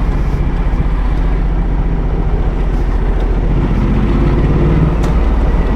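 Ducati Multistrada motorcycle engine running steadily while riding, its note easing off and picking up again about halfway through.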